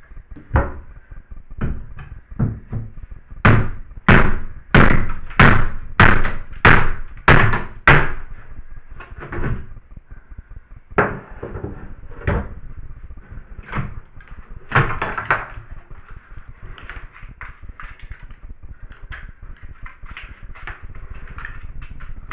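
Hammer blows against a nailed-on piece of drywall being knocked and pried off the wall: a few scattered knocks, then a steady run of about eight hard blows, roughly one and a half a second, followed by more scattered knocks and a loud cluster of strikes later on.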